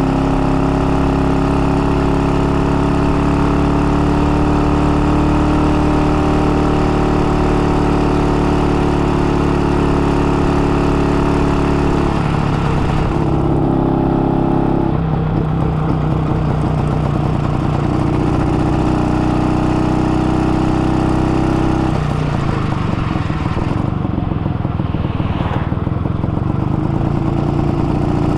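IZh 49 motorcycle's freshly rebuilt single-cylinder two-stroke engine, with a 75 mm piston, running under way while it is being run in at moderate speed. The engine note shifts in pitch several times and drops and softens briefly about halfway and again near the end.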